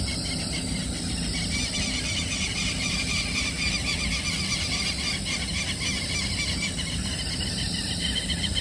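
Fishing reel's drag or line clicker buzzing steadily with a rapid pulse as a curimba pulls line off the reel.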